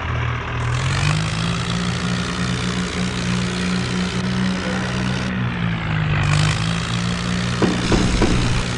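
John Deere tractor's diesel engine running steadily, with a few sharp knocks near the end.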